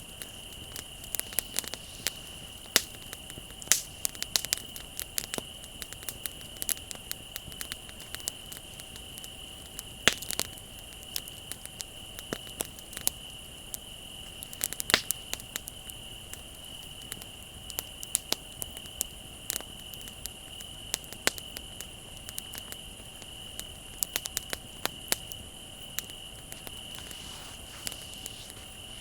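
Wood bonfire crackling with irregular sharp pops, the loudest about 10 and 15 seconds in, over a steady high trill of crickets.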